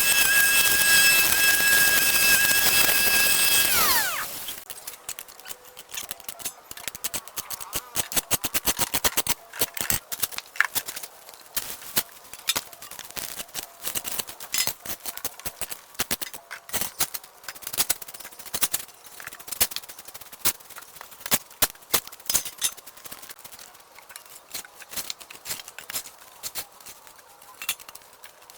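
A small motor running with a steady high whine, then winding down and stopping about four seconds in, followed by a long run of irregular sharp clicks and knocks from handwork.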